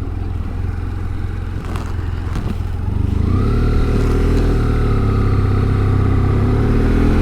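BMW F700GS parallel-twin engine running under way. About three seconds in it accelerates, its note rising and then holding steady.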